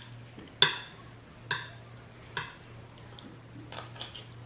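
Cutlery clinking against a dinner plate during eating, three sharp ringing clinks about a second apart, then a few fainter clicks near the end, over a steady low hum.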